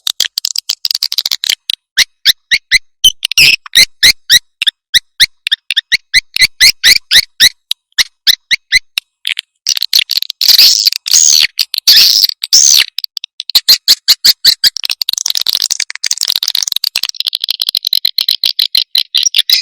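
Recorded calls of edible-nest swiftlets: a fast run of short, sharp chirps, about five a second, breaking into a denser, louder chittering about halfway through. This is a swiftlet lure call, played to draw the birds into a nesting house.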